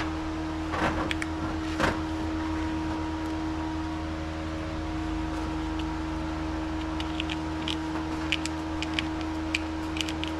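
A steady machine hum of unchanging pitch, with two short handling knocks about one and two seconds in and a run of small sharp clicks near the end.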